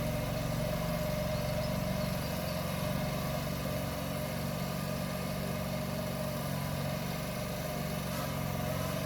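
Tractor engine running steadily at low speed, a constant low drone with a steady higher whine above it while the tractor is driven slowly.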